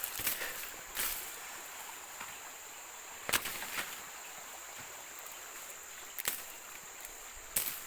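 Steady high-pitched insect drone over a background hiss, with about five sharp clicks or snaps scattered through, the loudest a little over three seconds in.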